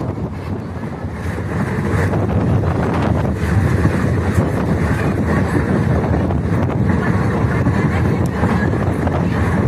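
Passenger train running along the track, heard from on board: a steady, loud rumble with wind buffeting the microphone.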